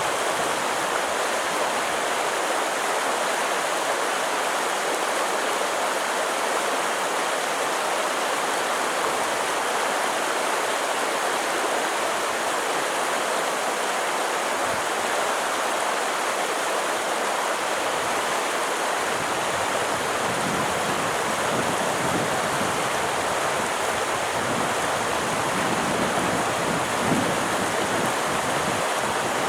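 Stream water rushing steadily, an even unbroken hiss of flowing water, with some low rumbling coming in about two-thirds of the way through.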